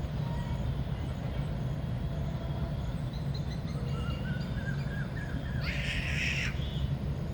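Outdoor ambience: a steady low rumble with faint bird chirps and whistles, and a short harsh bird call about six seconds in.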